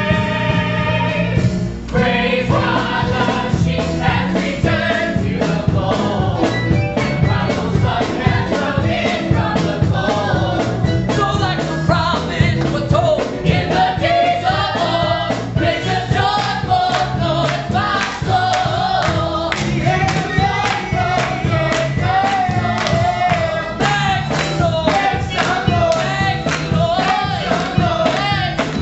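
Gospel-style choir singing with band accompaniment over a steady beat.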